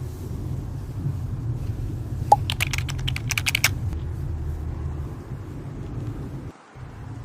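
A quick run of about a dozen light clicks lasting just over a second, over a steady low hum.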